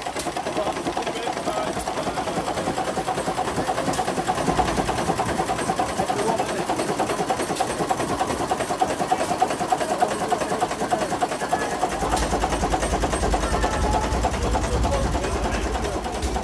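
Gardner 3J5 reversible marine engine running with a rapid, even mechanical clatter. A deeper rumble joins about twelve seconds in.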